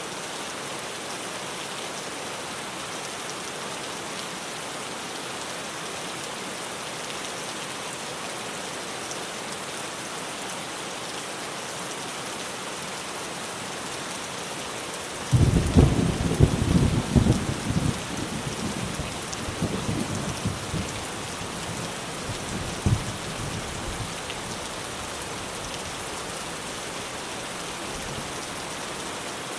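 Steady heavy rain drumming on a tin roof. About halfway through, a thunderclap breaks in suddenly and rolls on in fading rumbles for several seconds, with one last sharp crack before it dies away under the rain.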